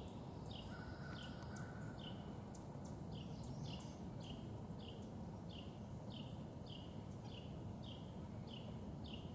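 A bird calling over and over, a short falling note about twice a second, faint against a low outdoor background hum.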